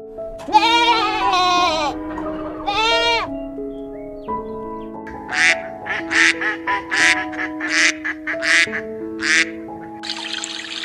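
Duck quacking: a run of about eight short quacks, roughly half a second apart, over soft background music with held notes. Two longer wavering animal calls come first, in the opening three seconds.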